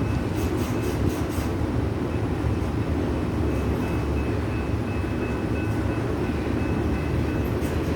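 Freight cars of a Union Pacific manifest train rolling past at about 35 mph: a steady rumble of steel wheels on rail, with a faint thin high tone throughout and a few light clicks in the first second or so.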